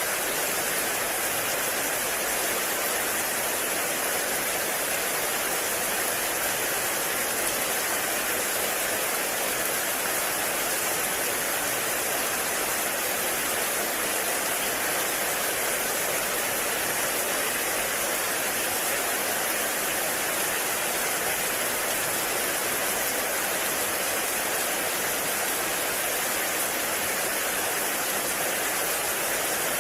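Heavy rain falling steadily on a forest, an even rushing hiss with no separate drops standing out.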